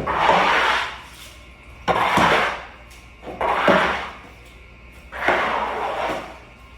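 Water being scooped and thrown out in four splashes, one about every one and a half seconds, each starting with a knock and washing out over about a second.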